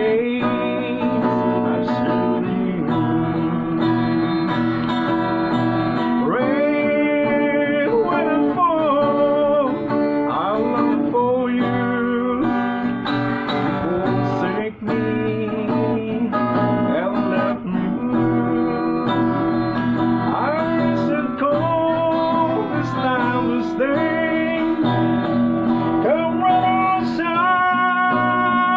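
Acoustic guitar playing an instrumental break of a slow ballad, with steady chords under a wavering, gliding melody line.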